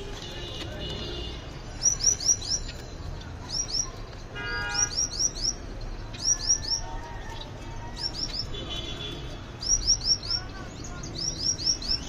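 Small caged birds chirping: bright, high chirps in quick runs of three to five, repeated every second or two.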